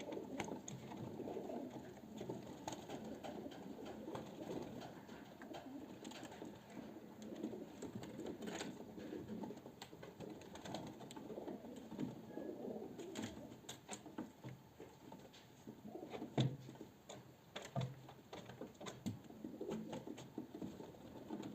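Street pigeons cooing continuously, overlapping one another, with scattered short taps and clicks throughout and one louder knock about sixteen seconds in.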